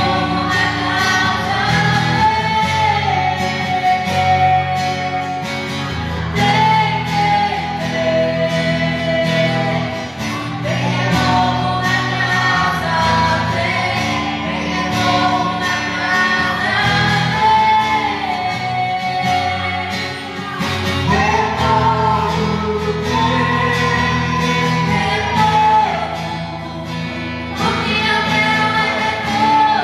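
Christian worship song: a sung melody over instrumental backing, with sustained notes that glide between pitches.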